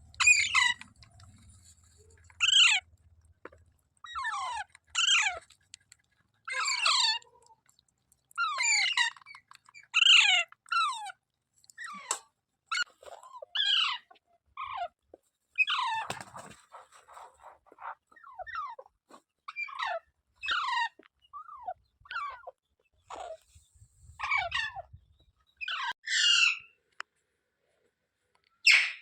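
Parrot giving a series of harsh calls, each sliding down in pitch, about one every second or two, with a short pause near the end.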